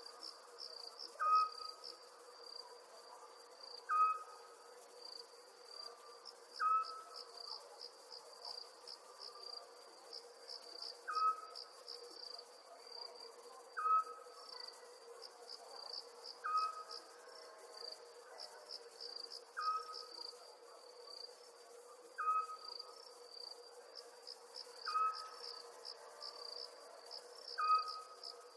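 Night ambience of crickets chirping in rapid pulsing trains, with a short call repeating about every two and a half to three seconds, the loudest sound, over a faint steady hum.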